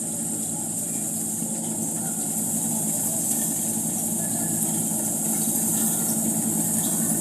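Combine harvester running steadily while harvesting wheat: a constant engine drone with a high hiss, growing gradually louder.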